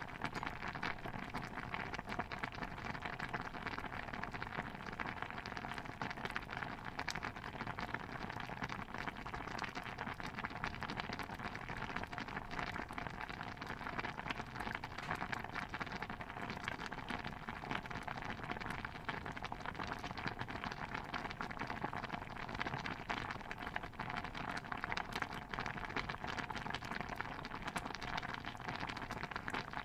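Pot of stew bubbling steadily at a simmer: a dense, even patter of small pops that keeps up without a break.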